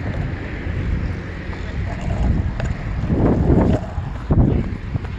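Wind buffeting the microphone outdoors: a steady low rumble, with stronger gusts about three seconds in and again near the end.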